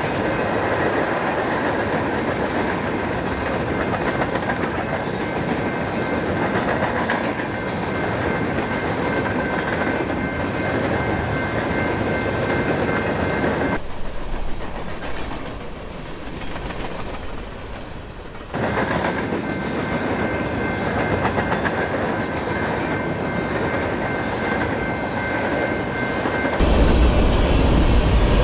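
Freight train rolling past: steady wheel-on-rail noise with clickety-clack and a thin steady ringing tone. The sound drops abruptly about halfway through and returns just as suddenly a few seconds later. A heavy low rumble comes in suddenly near the end.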